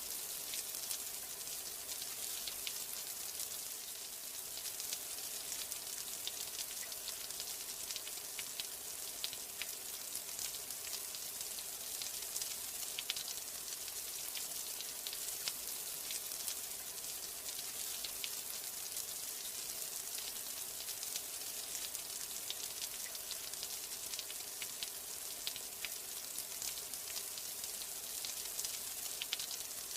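Steady rain falling: an even hiss with many sharp ticks of single drops landing.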